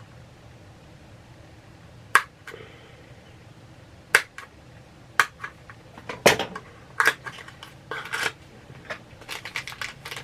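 Packaging of a mystery pin being opened by hand: separate sharp clicks and snaps every second or so, turning into quicker crinkling and clicking near the end.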